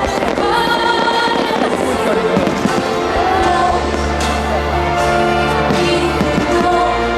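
Music with long held notes plays while fireworks burst several times, sharp bangs and crackle over the melody.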